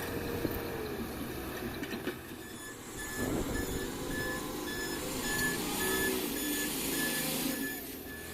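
A vehicle's reversing alarm beeping at a steady pitch, about two beeps a second, starting about two seconds in and stopping near the end. Beneath it a diesel engine runs, its pitch rising and falling in the middle.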